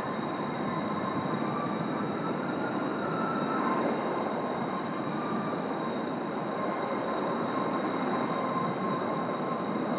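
Kawasaki T-4 jet trainers' turbofan engines running on the ground: a steady rush with a high, constant whine over it.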